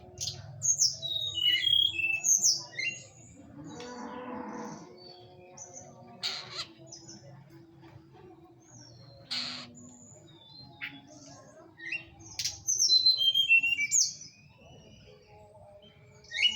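Teledekan songbird calling, as used for a lure: bursts of quick, falling whistled notes at the start and again about twelve seconds in, with a few short, sharp single calls between. A brief low, hazy sound comes about four seconds in.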